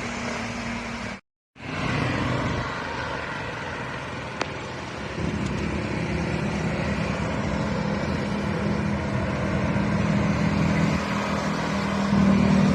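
Passing road traffic, vehicle engines and tyres. The sound drops out completely for a moment about a second in. A steady engine drone then builds from about five seconds in and is loudest near the end as a vehicle comes close.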